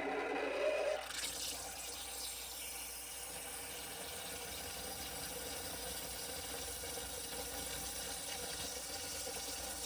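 Handheld steamer hissing steadily as it blows steam into a refrigerator's clogged defrost drain to melt the blockage. A short rising whir comes first, and the hiss sets in about a second in.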